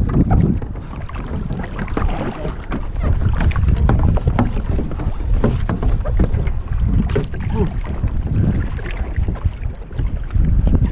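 Wind buffeting the microphone over water splashing and sloshing against a sea kayak as it is paddled.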